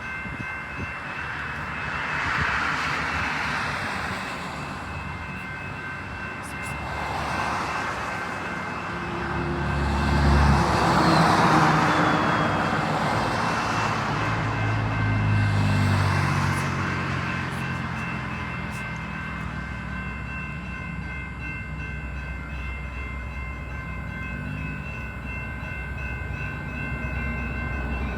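Diesel-hauled Metra commuter train approaching and running past, its locomotive engine and rolling noise swelling to a peak about ten to twelve seconds in, with steady high tones throughout.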